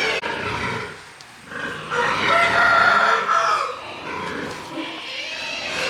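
Farm animals calling: shorter cries, then one long, loud call in the middle.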